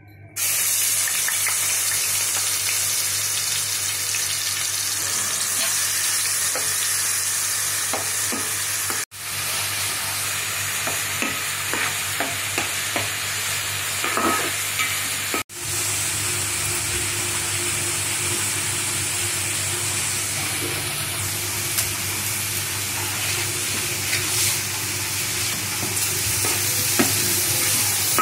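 Chopped onions frying in hot oil in an aluminium pot, a steady sizzle with a metal spatula stirring and scraping the pot. The sizzle starts suddenly and cuts out for an instant twice.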